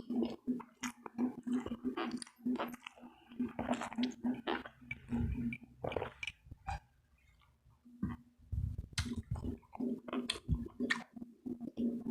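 Close-miked chewing and biting of a meal of crispy fried pork belly and vegetables: irregular wet smacks and crunches, with a brief lull about two-thirds of the way through. A steady low hum runs underneath.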